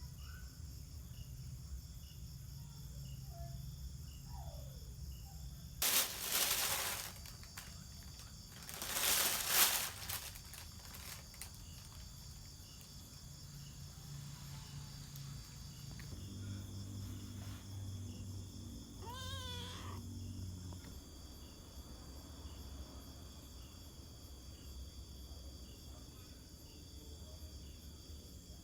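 Crickets chirring steadily in a night-time insect chorus. Two loud rushing noises about a second long cut across it roughly a quarter of the way in, and a short wavering call sounds about two-thirds of the way through.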